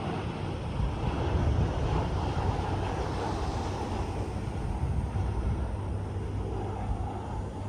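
Harley-Davidson Fat Boy 114's Milwaukee-Eight V-twin exhaust running steadily on the move, a low rumble under a haze of road noise.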